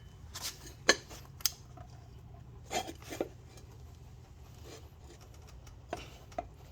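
Pliers clinking and scraping against a steel wheel rim while a new rubber valve stem is pulled through its hole: a handful of sharp metallic clicks spread over several seconds, the loudest about a second in.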